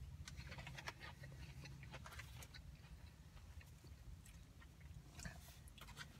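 A person chewing a mouthful of crispy fried chicken tender: faint, soft mouth clicks and smacks, thickest in the first couple of seconds and again near the end, over a low steady hum.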